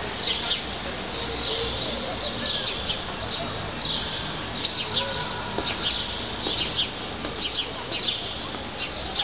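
Small birds chirping, many short high chirps in quick, irregular succession, over a steady low background noise.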